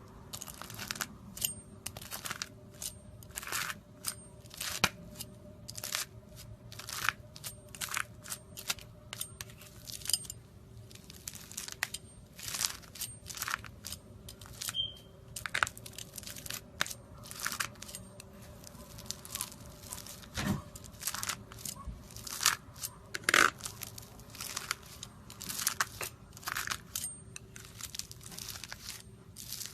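Knife cutting through crunchy slime: a steady string of crisp crunches and crackles, about one or two a second.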